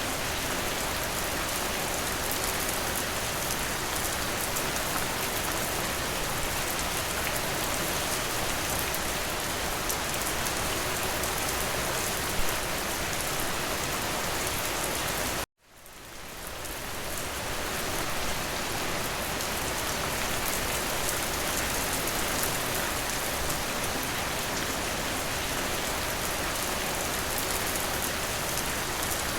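Steady rain hitting a window, an even hiss. About halfway through the sound cuts out suddenly and fades back in over a couple of seconds.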